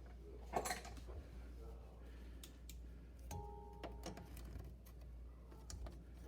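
Faint scattered clicks and taps of hands working at wire connectors beneath a refrigerator, pulling two wires off their terminals, with a sharper click about half a second in. A brief faint steady tone sounds about three seconds in.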